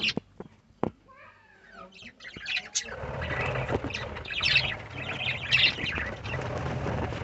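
Budgerigars in a colony chirping and chattering, many birds calling over one another, building to a dense chatter from about three seconds in. A few sharp clicks come near the start.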